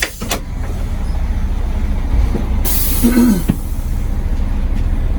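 Charter coach bus engine idling with a steady low rumble, with a short hiss of compressed air from the bus's air system about two and a half seconds in.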